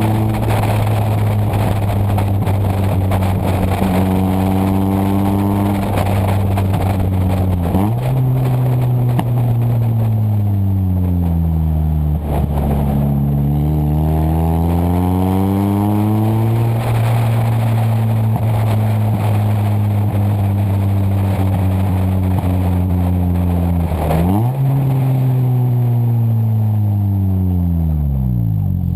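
A 1998 Toyota Corolla's engine running through a straight-piped exhaust, with a loud, unmuffled drone. The engine speed changes several times: it holds steady, jumps up, drops low, climbs again and holds, then jumps once more and falls away near the end.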